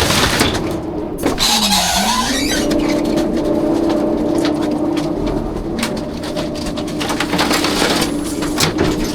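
Rear-loader garbage truck working its hydraulics: a steady engine-and-pump drone whose pitch sags about a second in and climbs back a second later, as if pulled down under load. Knocks and clatter from metal and trash run through it.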